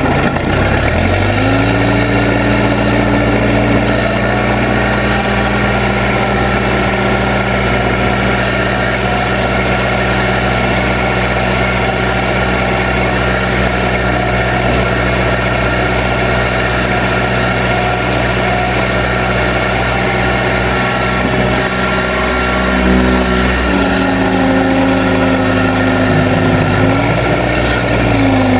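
Case 580B backhoe's engine rising in revs about a second in and running steadily at working speed, with a shift in pitch after about twenty-three seconds and the revs dropping near the end.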